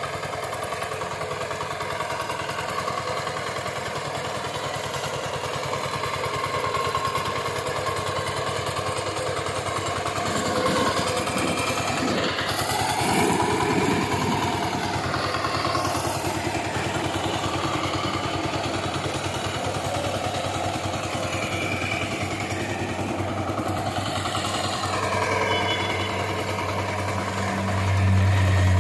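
VST Shakti power tiller engine running steadily, with a louder low hum near the end.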